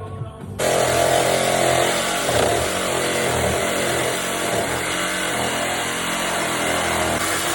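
Power tool cutting through the steel exhaust pipe under the car. It starts abruptly about half a second in and runs steadily and loudly.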